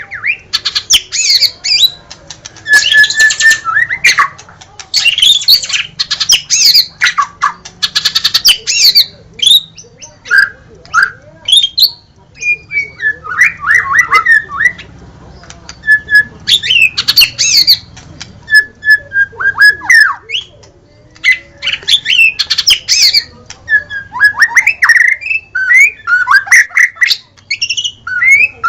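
White-rumped shama (murai batu) singing loudly: a fast, varied run of clear whistles, rattling trills and sharp clicks, given in phrases of a second or two with short pauses between them.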